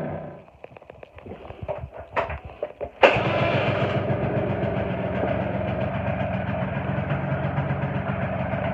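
Vespa ET2's small two-stroke engine dies away, a few clicks and knocks follow, then it starts abruptly about three seconds in and runs steadily.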